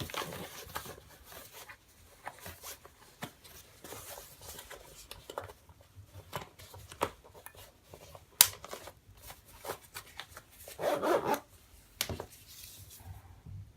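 Handling noise from a CamelBak Stowaway hydration pack being taken apart: fabric and plastic rustling with scattered small clicks. One sharp click comes a little past the middle, and a brief louder rustle follows a few seconds later.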